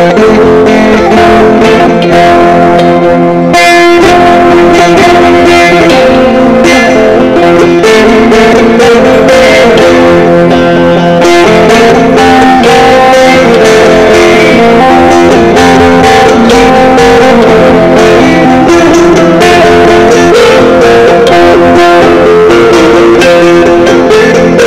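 Sape, the Dayak plucked boat lute, playing a flowing melody over steadily sustained low notes, with a short break about three and a half seconds in.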